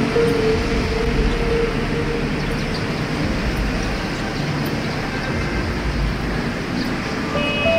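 Steady rumble of passing vehicles, with a held tone fading out in the first second and other held tones starting near the end.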